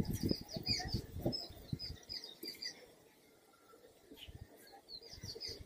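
Small birds chirping repeatedly in short high notes, with soft low rustling in the first couple of seconds.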